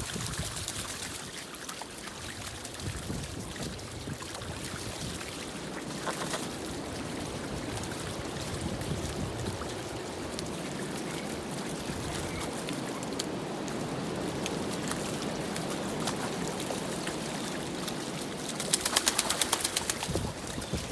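Ducks on a pond: soft bird calls and water trickling over a steady outdoor hiss, with a short rapid fluttering about two seconds before the end.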